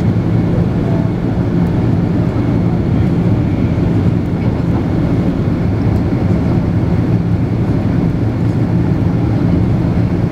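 Steady engine and airflow noise heard inside the passenger cabin of a Boeing 767-300 airliner: a loud, even rumble with a low steady hum.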